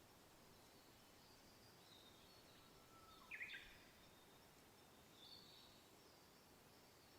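Faint natural outdoor ambience of soft wind with scattered high bird chirps. One louder, quick bird call comes about halfway through, and a softer one follows a couple of seconds later.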